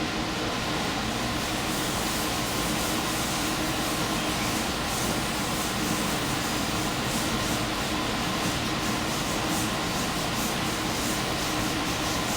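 Diesel limited express train running steadily at speed, heard from the front of the train: an even rolling and running noise with a steady hum, and faint regular ticks from the rails in the second half.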